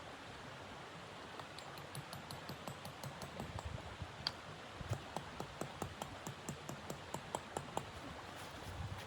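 Wood fire crackling: irregular sharp pops and snaps, several a second, over a steady faint hiss.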